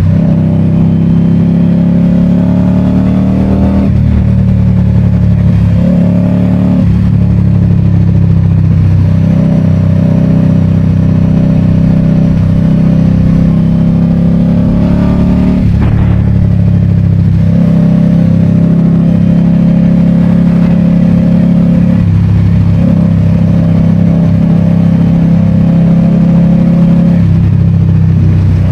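2022 Indian Scout Bobber's V-twin engine running loudly and steadily, its note briefly dropping out and picking up again a few times.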